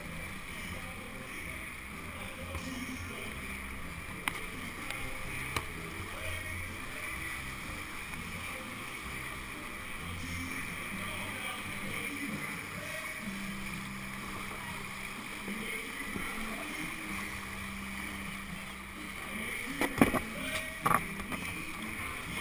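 Steady rushing of whitewater around a kayak, with a few sharp knocks about twenty seconds in.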